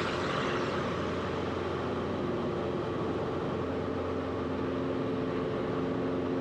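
Steady drone of a Cessna 172RG's engine and propeller heard inside the cabin in flight, running at a constant power setting.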